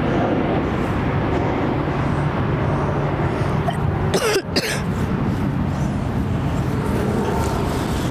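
Steady rumble of airliner jet engines, with a person coughing briefly about four seconds in.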